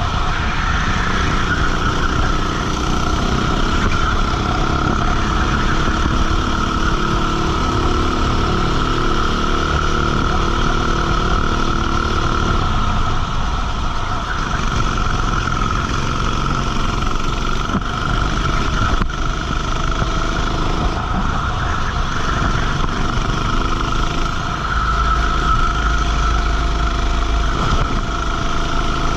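Racing kart engine running at speed, recorded onboard, its pitch rising and falling as the kart brakes and accelerates through the corners, with a steady high whine over it.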